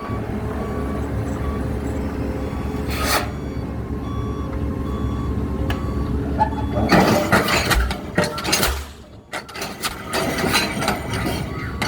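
Heavy construction machinery running with a steady low engine rumble, with a single knock about three seconds in and a stretch of clattering and metal noise past the middle.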